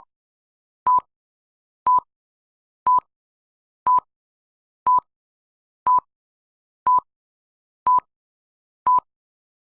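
Short electronic beeps at one steady pitch, evenly spaced about once a second, with dead silence between them.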